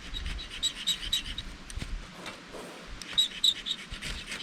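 Ferrocerium rod fire starter scraped with a striker to throw sparks: two bursts of quick, high-pitched rasping strokes, the first right at the start and the second about three seconds in.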